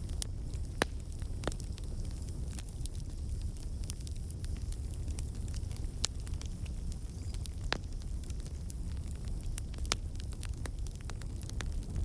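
Wood campfire burning with a steady low rumble and irregular sharp crackles and pops from the logs, the loudest a few seconds apart.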